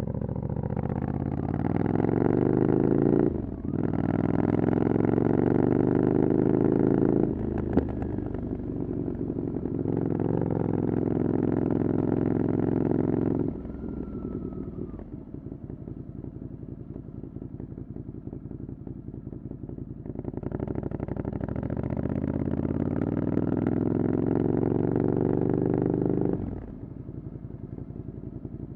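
Ducati Scrambler Desert Sled's air-cooled L-twin through a LeoVince exhaust with the dB killer removed, pulling hard with the pitch climbing and dropping sharply at two upshifts in the first eight seconds. About halfway through the throttle rolls off to a lower, quieter burble for several seconds, then the engine pulls up again and rolls off near the end.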